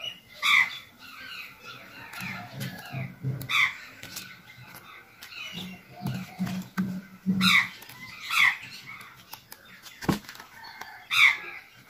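A bird calling repeatedly, short loud calls at uneven intervals, with a low pulsing sound in stretches and a single sharp click about ten seconds in.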